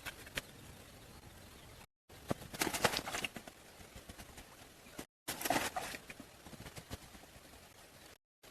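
Irregular light knocks and taps with some scraping, in short clips cut together with brief silent gaps between them.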